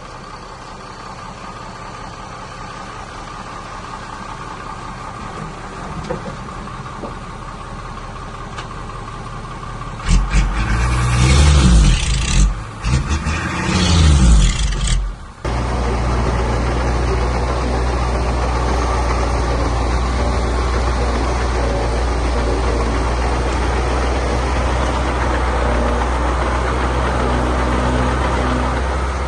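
Heavy diesel engine of earthmoving machinery running. About ten seconds in it revs up and down loudly for several seconds. Then the sound changes abruptly to a steady, louder, low engine note at constant speed.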